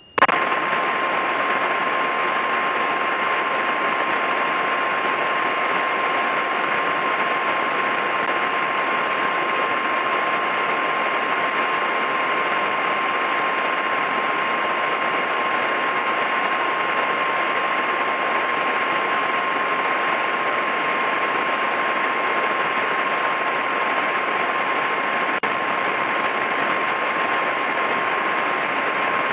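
Steady, unchanging cabin noise of a Mooney M20K in flight on approach, a hiss-like drone of engine and airflow as picked up through the aircraft's intercom or audio feed, with one thin steady whine above it.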